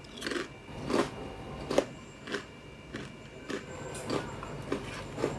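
Close-up crunching and chewing of thin, crispy rice crackers: a steady series of sharp crunches, roughly two every second or a bit slower.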